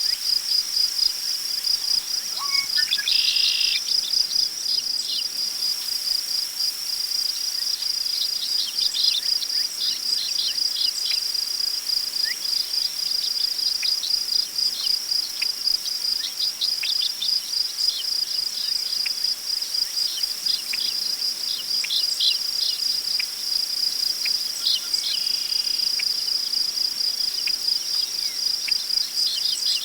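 Prairie ambience: crickets trilling steadily in a high, fast-pulsing chorus, with birds chirping in short calls scattered throughout and a faint hiss of wind through tall grass.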